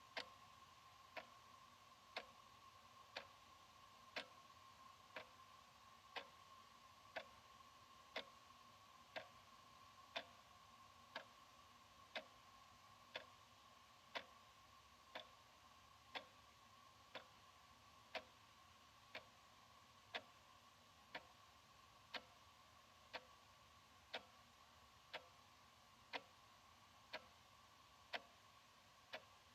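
Analog wall clock ticking steadily, one sharp tick a second, over a faint steady hum.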